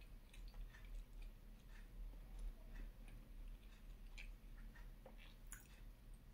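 Faint chewing: irregular soft clicks and small crunches of a mouth working on food, over a low steady hum.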